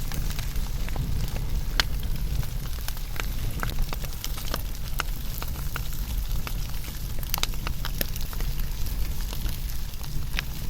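Fire burning, with frequent irregular sharp crackles and pops over a low steady rumble.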